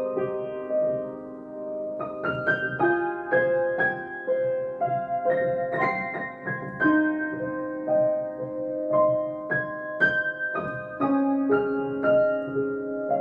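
Solo piano playing a slow, gentle melody over broken chords, each note ringing on.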